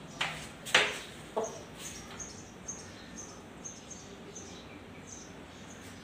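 A small bird chirping faintly in the background, short high chirps about twice a second. In the first second there are two sharp noisy sounds, the louder a little under a second in, and soon after comes a short cluck from the rooster.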